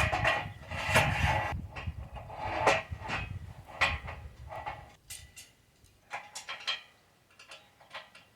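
Irregular clanks, clicks and rattles of steel parts and tools being handled during assembly. They are busiest over the first five seconds, then thin out to a few scattered ticks.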